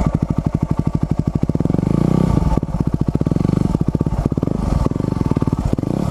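Motorcycle engine being ridden at low revs, its separate firing pulses plainly heard, the revs rising and falling slightly as the bike is pushed on.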